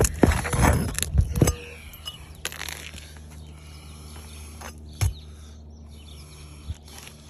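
A tool scraping and clicking on asphalt roof shingles in a quick run of sharp strokes for about a second and a half, then birds chirping faintly, with a single knock about five seconds in.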